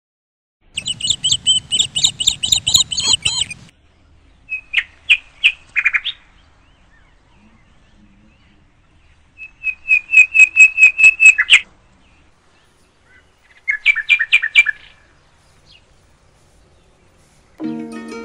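Bird calling in four separate phrases of rapid, evenly repeated high notes, each phrase one to three seconds long with pauses between them. A low rumble runs under the first phrase, and music starts near the end.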